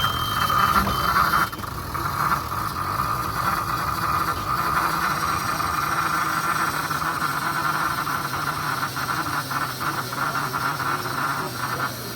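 Narrow-gauge steam locomotive moving during a run-round, with a steady high-pitched squealing sound and some rattling.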